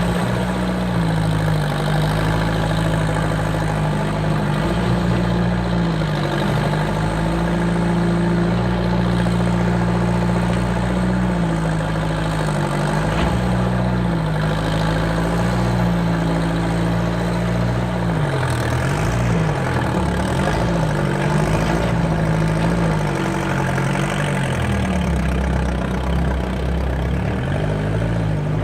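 Skid steer engine running steadily under working load, its pitch dipping and rising again several times as the load comes and goes, most often in the second half.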